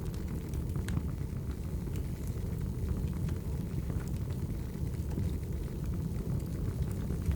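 Wood fire burning: a steady low rumble with scattered small crackles and pops.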